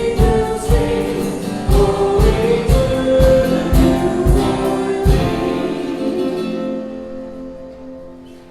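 Worship song with singing, guitar and a steady drum beat; the drums stop about five seconds in and the final chord is held and fades out as the song ends.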